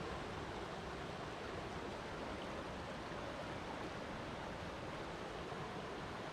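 Water rushing steadily, an even unbroken wash of flowing water.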